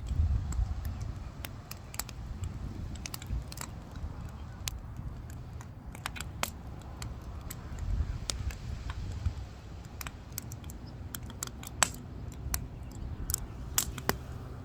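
Wood fire burning, crackling with irregular sharp pops over a low steady rumble; the loudest pop comes near the end.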